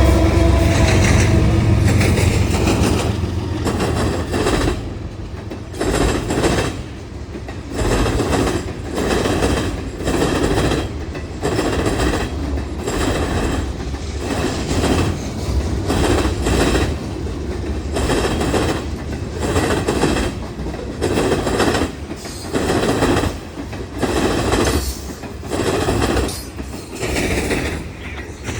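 CSX freight train passing behind GE diesel locomotives. The locomotives' low engine rumble fades over the first few seconds, with the tail of a horn dying away at the very start. Then the freight cars roll by with a regular clatter of wheels over the rail joints, about once a second.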